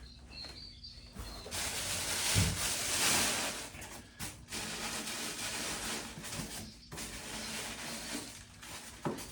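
Rustling and crinkling of packing wrap around a statue piece as it is handled and pulled open, with a few light knocks. The rustling starts about a second and a half in and is loudest soon after.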